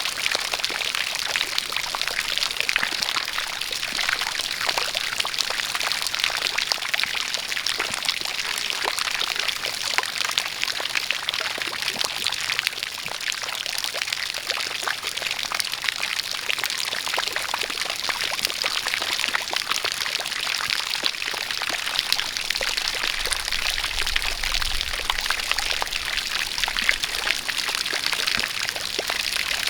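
A steady jet of water pouring and splashing, mixed with falling rain; a dense, even rush of water thick with small drop ticks, without let-up.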